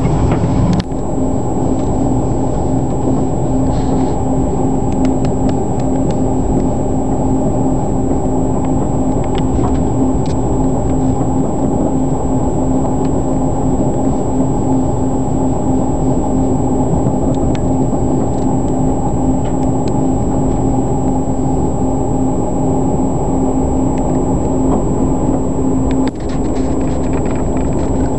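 Passenger train running at speed, heard from inside the carriage: a steady low rumble of wheels on rail with a constant hum and a few faint clicks.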